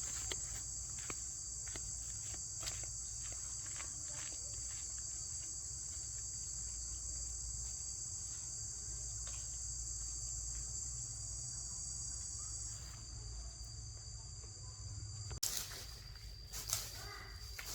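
Steady high-pitched insect chorus. A few light clicks are scattered through the first few seconds, and the sound changes abruptly about 15 seconds in.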